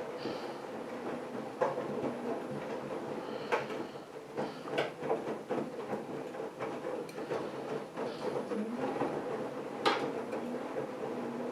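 AEG Lavamat front-loading washing machine running: a steady motor hum with scattered clicks and knocks from the turning drum, and a rising whine about three quarters of the way through as the drum motor winds up.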